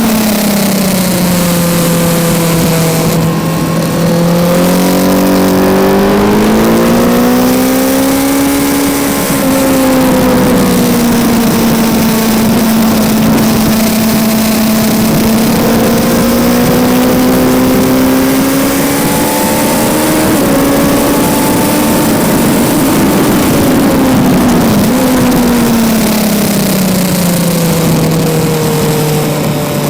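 Kawasaki Z900's 948 cc inline-four engine under way on track, heard onboard over heavy wind rush. Its pitch falls in the first couple of seconds, climbs again around eight seconds in, holds through the middle, and falls back near the end as the rider works the throttle through the corners.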